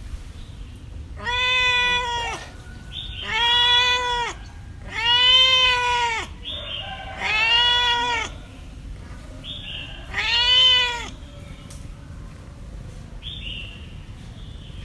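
A cat meowing five times, each a long, drawn-out meow of about a second that rises and then falls in pitch, with short pauses between.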